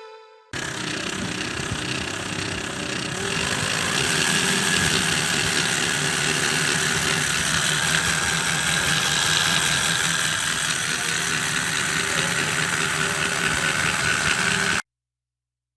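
Homemade V4 model-aircraft engine running steadily. It starts about half a second in, gets a little louder a few seconds later, and cuts off abruptly shortly before the end.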